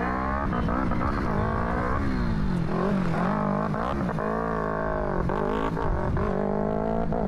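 A vehicle engine revving hard and repeatedly, its pitch climbing and dropping about once a second.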